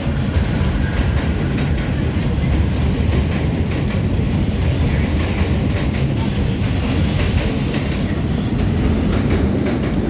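Subway train running, a steady loud rumble with faint clicks from the rails.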